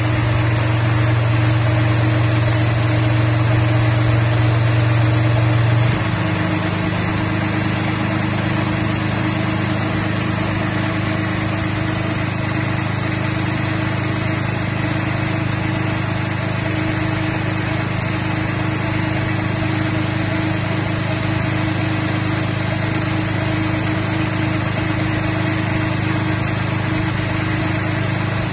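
Mitsubishi engine of a crawler walnut tree shaker running steadily. About six seconds in, its note changes abruptly to a slightly higher, a little quieter tone and holds there.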